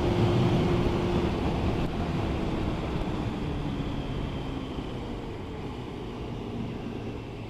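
Yamaha Thundercat motorcycle's inline-four engine running under wind and road noise at the rider's microphone, the engine note easing and the overall sound fading steadily as the bike slows.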